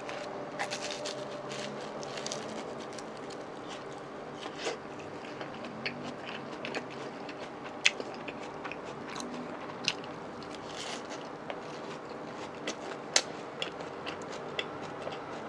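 Crunchy bites and chewing of deep-fried menbosha (Chinese-style shrimp toast) close to the microphone, with sharp crunches scattered throughout. The loudest cracks come about eight seconds in and again about thirteen seconds in.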